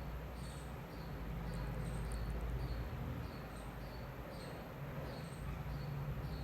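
Faint high chirps repeating about twice a second over a low steady hum.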